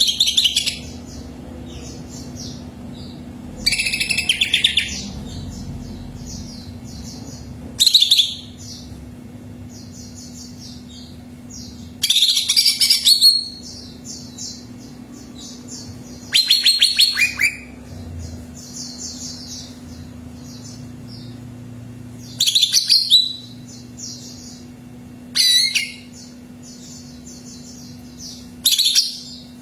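Cucak ijo (green leafbird) singing: loud, varied phrases of about a second each come every few seconds, with softer rapid chirping between them. A steady low hum runs underneath.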